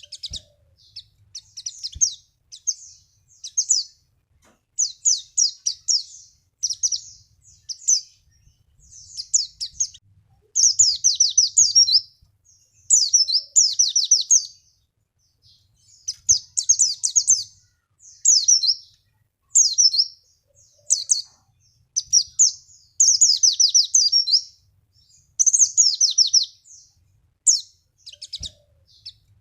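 White-eye (pleci) singing: short, fast bursts of high chirping notes, many of them quick falling strokes run together into chattering phrases, repeated over and over with brief pauses.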